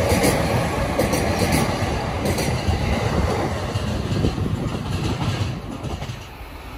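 JR Chūō-Sōbu Line local electric commuter train running past at close range: a loud rumble with the wheels clicking over rail joints a few times, fading away from about five seconds in.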